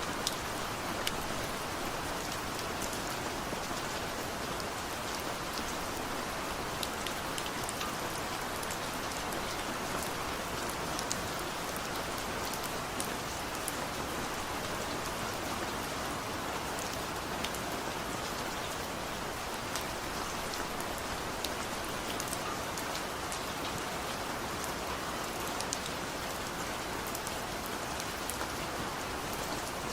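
Steady rain, an even hiss of falling rain with many small, sharp drop ticks scattered through it.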